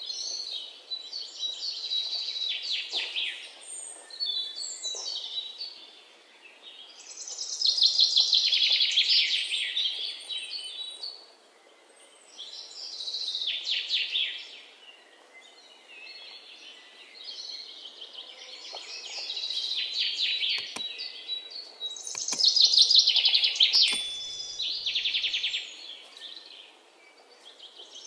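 Birds chirping and trilling in loud bursts every few seconds, with quieter chirping between them. A couple of faint clicks come in the last third.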